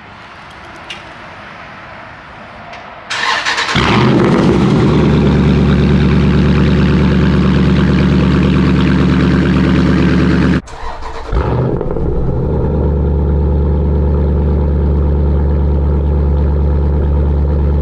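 SRT engine cold start: a brief burst of cranking about three seconds in, then the engine fires and settles into a loud, steady idle. Near the middle the sound drops out abruptly for about half a second, then the same steady idle carries on.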